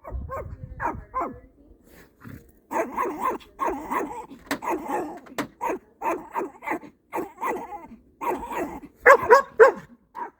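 Two dogs calling back and forth: runs of short pitched barks and whining yowls in clusters, with brief pauses between them.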